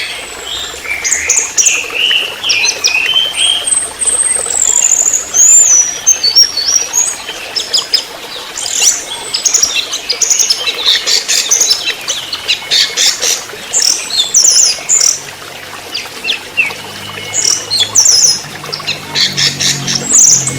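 Orange-headed thrush singing a fast, varied song of whistled sweeps, chirps and rapid trills, with hardly a pause.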